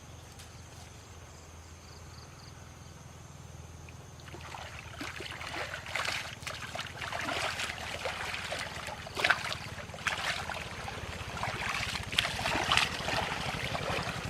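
Water splashing and trickling, starting about four seconds in and going on irregularly with a few sharper splashes, over a low steady hum.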